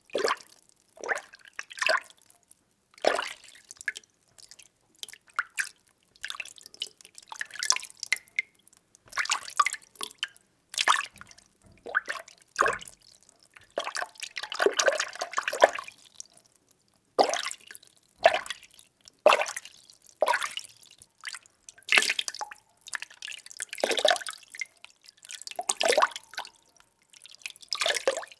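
Water being stirred by hand in a container: irregular sloshes and small splashes, with a longer swishing swirl about halfway through.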